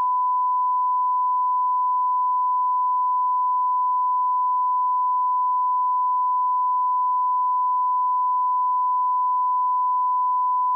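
Broadcast line-up test tone: a steady, unbroken 1 kHz sine tone at the −18 dBFS reference level, used to check and align audio levels.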